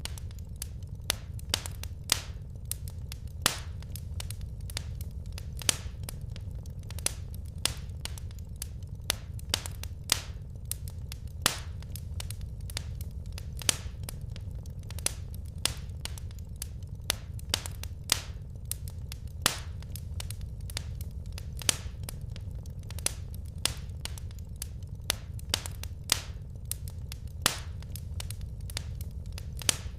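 Wood fire crackling in a fireplace: irregular sharp pops and snaps, a few a second, over a steady low background.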